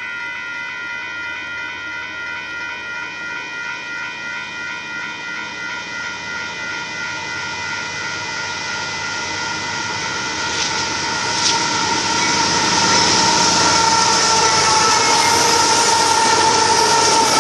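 Railroad crossing bell ringing steadily while a Union Pacific freight train approaches. From about ten seconds in, the train's rumble grows, with a couple of knocks. The diesel locomotives and the first loaded hopper cars then pass close by, and the wheel and rail noise is the loudest thing near the end.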